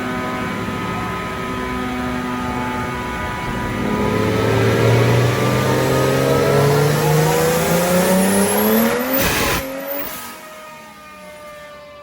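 Single-turbo BMW 135i's N54 straight-six running steadily, then pulled hard with the revs rising smoothly for about five seconds in one gear. About nine and a half seconds in the throttle closes with a sudden rush of noise, and the engine drops back to a quieter run.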